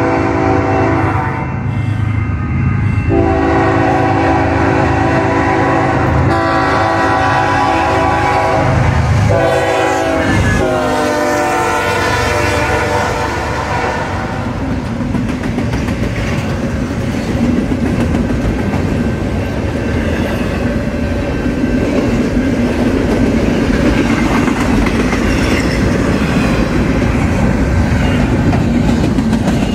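BNSF freight locomotive's air horn sounding several long chord blasts at the crossing, its pitch dropping about ten seconds in as the locomotive goes by. Then double-stack container well cars rolling past with steady wheel clatter on the rails.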